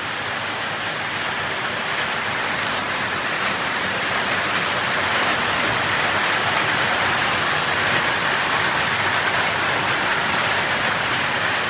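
Heavy rain pouring down in a steady hiss, growing slowly louder as the downpour intensifies.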